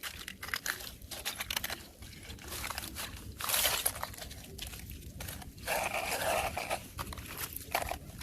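Thin fresh ice crunching and cracking in a run of short sharp cracks, with a louder crunch about three and a half seconds in and a longer scraping crunch near the end.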